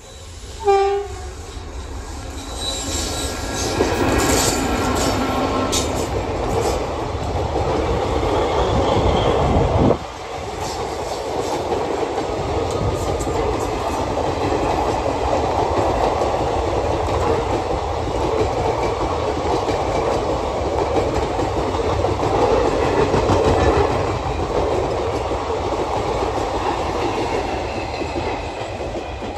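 A WAP-4 electric locomotive gives a short horn blast about a second in, then passes at speed hauling a rake of sleeper coaches. The wheels rumble steadily with clickety-clack knocks over the rail joints, and the loudness drops suddenly around ten seconds in.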